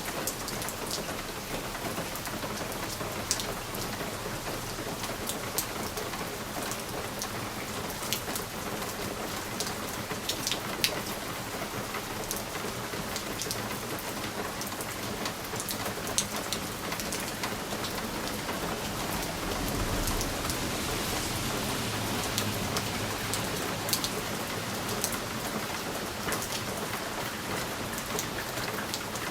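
Steady rain on window glass, with sharp ticks of single drops striking the pane. About twenty seconds in, a low rumble of distant thunder swells and fades.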